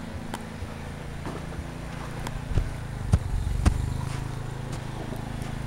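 A steady low engine hum, a little louder from about three seconds in, with a few scattered sharp clicks.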